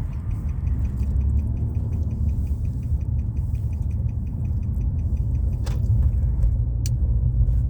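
Steady low road and engine rumble of a car being driven, heard from inside the cabin. A faint, fast, regular ticking runs through most of it, and two sharp clicks come near the end.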